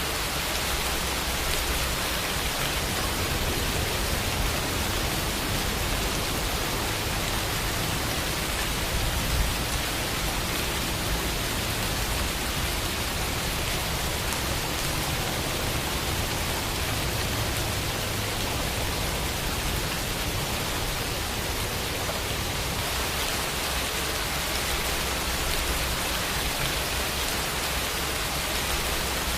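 Steady rain falling, a dense even hiss of drops with no distinct patter standing out.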